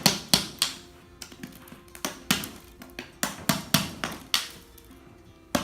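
Small hammer tapping on a hard baked dough crust to crack it open: a dozen or so sharp knocks at an uneven pace.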